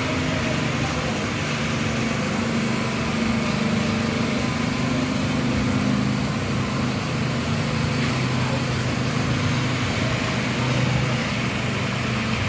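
Small petrol engine of a power trowel running steadily as it finishes a freshly poured concrete floor, its pitch drifting slightly with the load.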